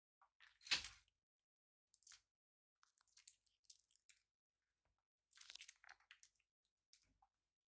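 Pet parrots' beaks crunching and clicking, as when husking seed: faint, scattered crunches, the loudest about a second in, with a short scraping crunch about two thirds through.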